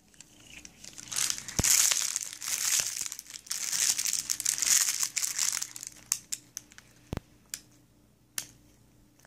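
Crinkling, rustling sound, loudest from about a second in until about six seconds in, then a few light scattered clicks.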